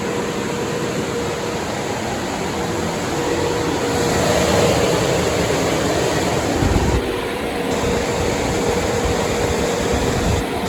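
Caterpillar C15 diesel in a Kenworth W900 running on a chassis dynamometer: a loud, steady engine noise with a steady whine running through it. It grows louder about four seconds in, with a brief low thump near seven seconds.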